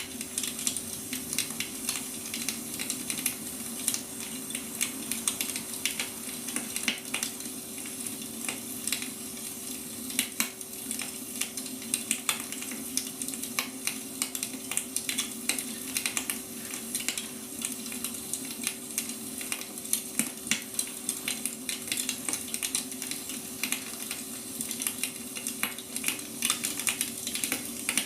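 Wood fire burning, with dense irregular crackles and small pops over a steady hiss. A faint low hum runs under it.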